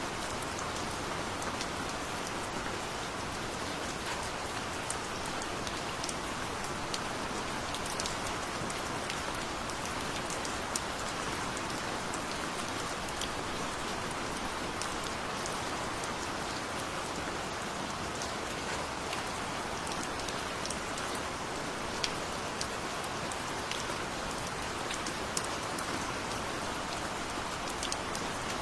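Steady gentle rain falling, a continuous hiss with scattered individual drops ticking on a surface.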